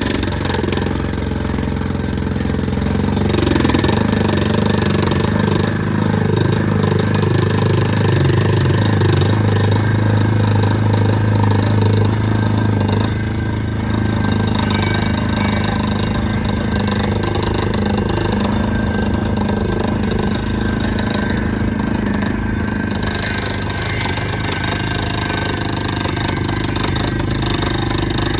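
Borewell drilling rig's engine running steadily under load with a loud, constant drone, easing slightly about halfway through.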